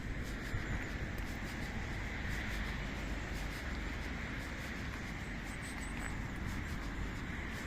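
Wind rumbling on the microphone over the steady noise of traffic on a nearby road.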